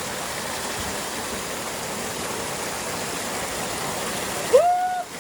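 Valley stream water rushing steadily over rocks. Near the end the rushing noise drops off abruptly and a brief high-pitched call rises and holds for about half a second.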